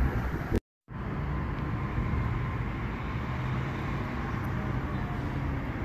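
Distant approaching train heard as a steady low rumble with a faint hum. In the first half-second wind gusts on the microphone, then the sound drops out completely for a moment.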